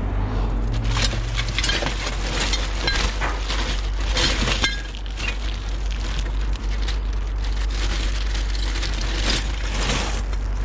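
Scrap aluminium pieces, copper-aluminium heat sinks among them, clattering and clinking as they are dropped onto a pile of metal. There is a steady low hum underneath.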